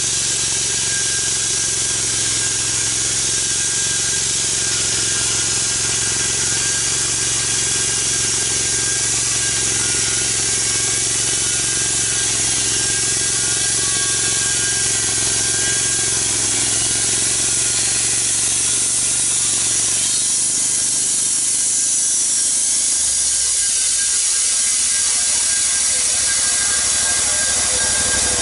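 Log being sawn on a sawmill: the mill's engine running steadily under the hiss of the blade cutting through the wood, the engine's low note changing about two-thirds of the way through.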